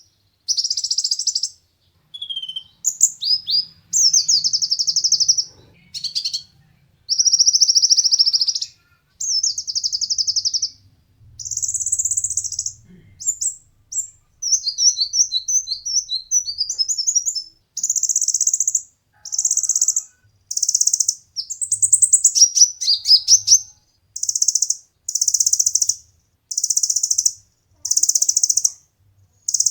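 A konin (kolibri ninja sunbird) singing: a string of high, rapid trilled phrases about a second each with short pauses between, falling into a regular run of about one phrase a second near the end.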